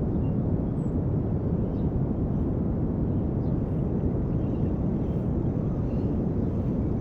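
Steady low rumble of outdoor background noise, unchanging throughout.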